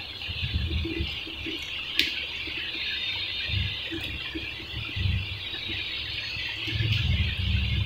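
Close-miked chewing of a mouthful of mutton biryani rice eaten by hand, soft wet mouth sounds coming in bursts, over a steady high hiss. A sharp click comes about two seconds in.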